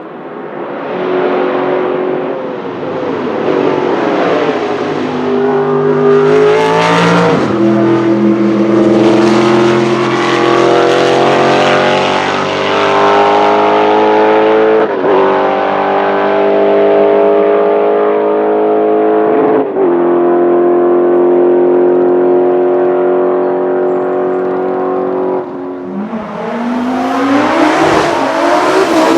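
Aston Martin AMR1 Group C race car's V8 accelerating hard through the gears, loud, its pitch climbing steadily between upshifts about 7, 15 and 20 seconds in. Near the end it gives way to a different engine revving: the Prospeed Audi Sport Quattro S1.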